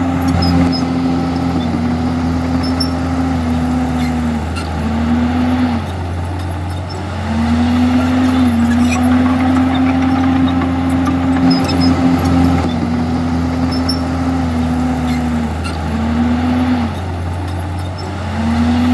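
Bulldozer's diesel engine running steadily under load. Its pitch sags and recovers twice, about eight seconds apart, as the load on the engine changes.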